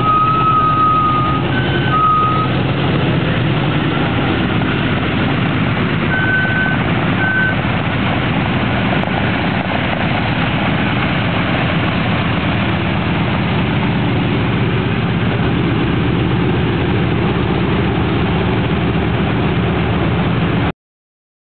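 A B-17G Flying Fortress taxiing, its four Wright R-1820 Cyclone radial engines running in a steady, loud drone. Short high beeps sound several times in the first couple of seconds and again about six seconds in, and the sound cuts off suddenly near the end.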